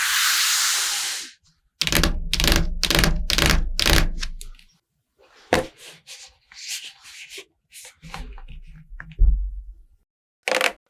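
Makeup tools tapping and rubbing on a watermelon's rind. A short hiss opens it, then a run of quick, even strokes about three a second, then scattered softer taps and scrapes, and another quick run near the end.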